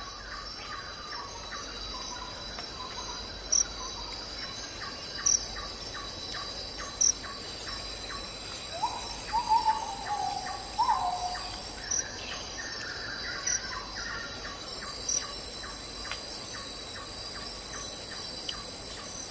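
Insects trilling steadily in high tones, with short sharp chirps every second or two, and a bird calling a few times around the middle.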